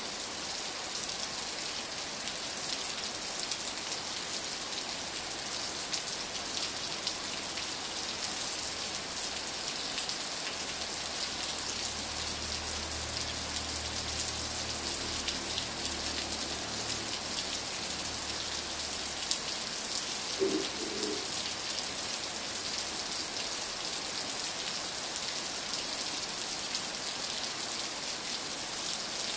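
Steady rain falling, an even hiss without a break, with a faint low drone passing through for several seconds in the middle.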